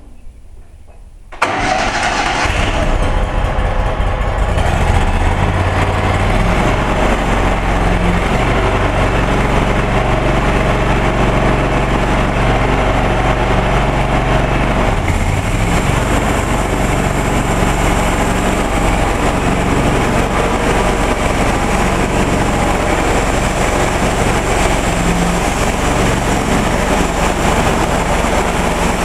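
The engine of a homemade portable sawmill starts about a second in and then runs steadily.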